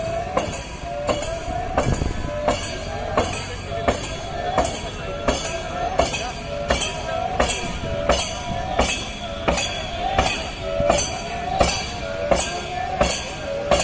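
Snake boat (chundan) crew paddling in unison: a sharp stroke with a short splash about every two-thirds of a second, under rhythmic chanting.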